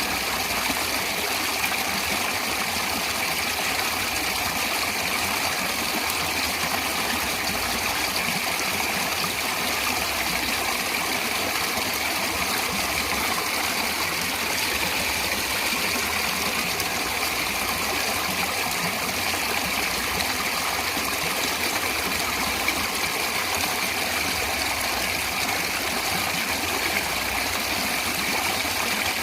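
Natural flowing water running steadily, an even rush with no breaks or changes.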